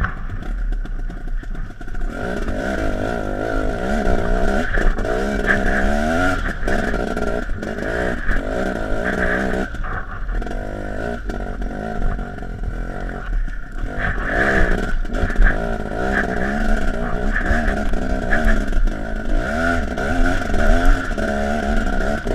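A dirt bike engine ridden off-road, revving up and down with the throttle so its pitch rises and falls every second or so, with occasional sharp knocks.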